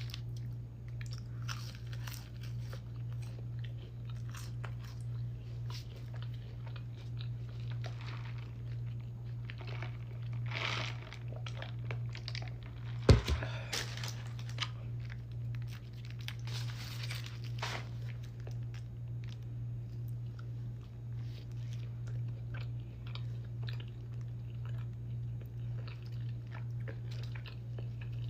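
Close-up chewing and crunching of fast food, with many small crisp bites. There is one sharp knock about 13 s in, over a steady low hum.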